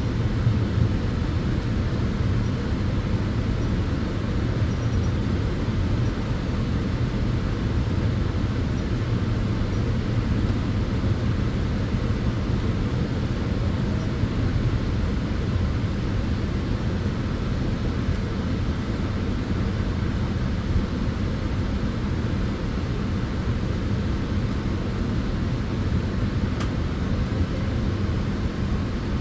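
Tanning bed (sunbed) running, its cooling fans making a steady, even rushing noise with a deep hum underneath.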